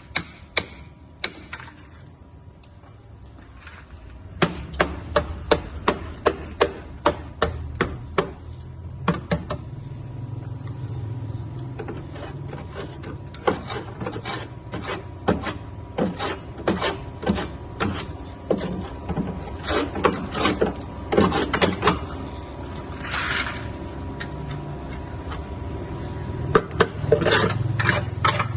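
Hand-tool scraping or rasping strokes, quick and rhythmic at about three strokes a second, starting about four seconds in after a few separate strokes and a short pause.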